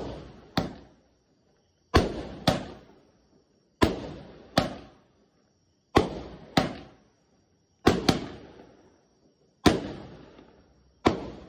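Multi-shot consumer fireworks cake firing, a shot about every two seconds, six in all: each is a pair of sharp bangs about half a second apart, the launch and the shell bursting overhead, with echoing decay after each.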